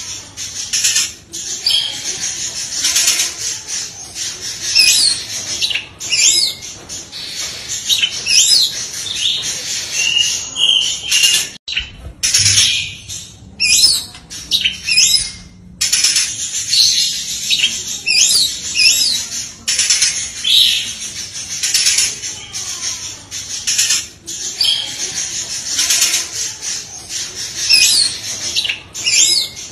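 Oriental magpie-robin (kacer) singing a continuous, loud, fast song: rapid strings of sharp, high whistled 'shot' notes and quick rising and falling phrases, broken twice by brief pauses.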